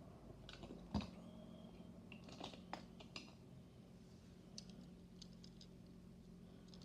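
Faint, scattered light clicks and taps from small diecast toy trucks being handled, the sharpest about a second in, with lighter ticks a few seconds later.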